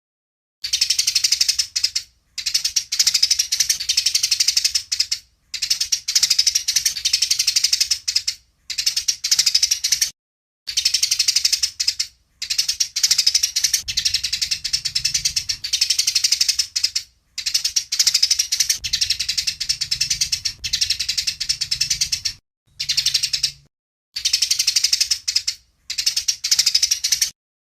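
Eurasian tree sparrows chattering in fast, harsh runs of chirps, in bursts of one to three seconds with short breaks between them: the agitated calling of sparrows fighting.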